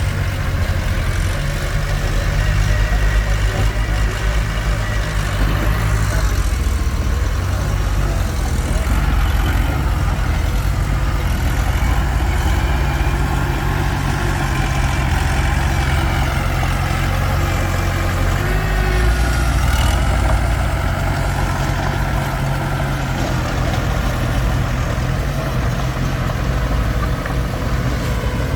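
Komatsu D21P bulldozer's diesel engine running steadily with a deep, low hum, its level swelling and easing a little as it works.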